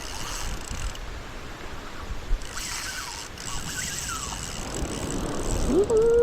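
Surf washing on the beach with wind buffeting the microphone. Near the end a man starts a whooping 'woo-hoo' cheer.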